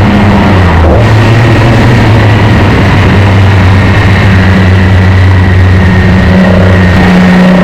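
Nissan S30Z's modified L28 straight-six running at steady revs while driving, with a brief dip in the engine note about a second in and a step up in pitch near the end.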